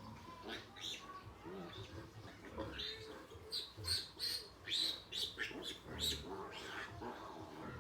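Newborn piglets squealing in a run of short, high-pitched squeaks while suckling, over occasional low grunts from the nursing sow.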